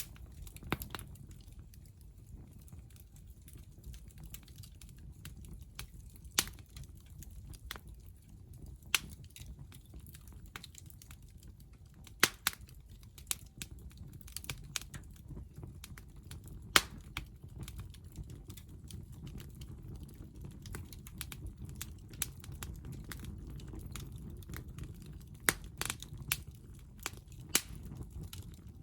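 Hardwood fire crackling in a small titanium fire pit: irregular sharp pops and snaps from the burning wood over a low, steady rumble.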